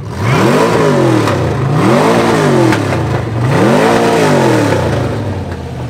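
V8 engine revved hard three times, each rev climbing and dropping back to a steady idle between.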